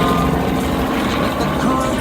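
A helicopter's engine and rotor running with a steady drone, mixed with people talking.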